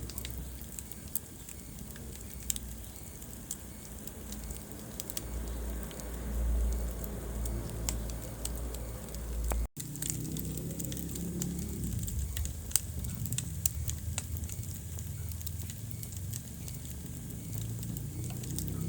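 Wood fire burning in a fireplace, with frequent sharp crackles and pops over a low rumble of flames. About ten seconds in, the sound cuts out for a split second and resumes.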